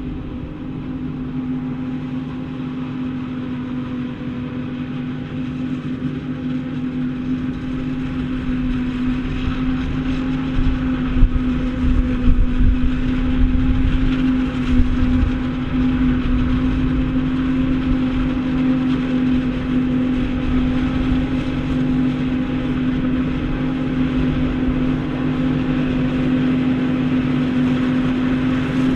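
Heavy farm machinery running steadily at corn chopping, with a strong even hum over a deep rumble. It grows gradually louder through the first half, then holds steady.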